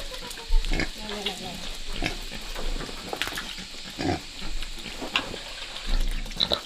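Pigs grunting, with scattered short clicks and knocks.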